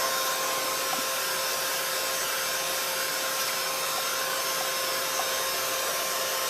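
Craft heat gun running steadily, a constant rush of air with a steady whine under it, drying wet paint and gelato on a paper card.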